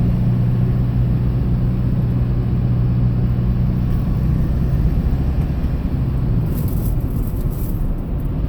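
Hyundai Porter II box truck driving, heard from inside the cab: a steady low engine drone under road rumble. The drone eases off after about five seconds while the rumble goes on.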